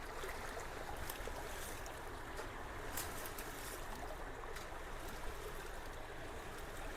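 Creek water running steadily through and over a partly cleared culvert, with a few faint clicks.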